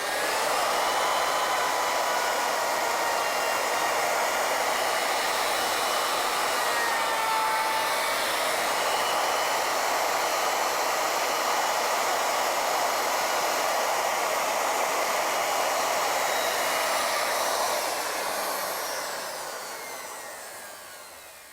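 Plunge router on an ornamental milling machine running at speed as it mills the taper of a wooden table leg, a steady high whine. Over the last few seconds it winds down as the motor is switched off.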